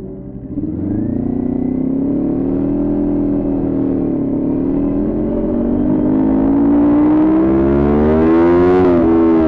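Kawasaki Ninja 400's parallel-twin engine through a Coffman exhaust, accelerating under throttle. The pitch climbs from about half a second in, eases briefly partway through, then rises steadily to high revs and drops sharply near the end as it shifts up.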